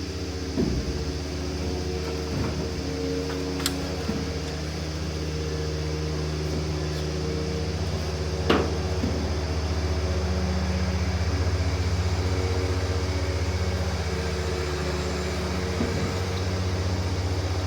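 A steady mechanical hum from a running motor or engine, with two sharp knocks, about four seconds and eight and a half seconds in.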